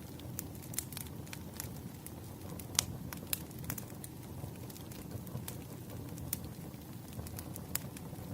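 Wood fire crackling: a steady low rumble of burning with irregular sharp pops and snaps, one louder snap about three seconds in.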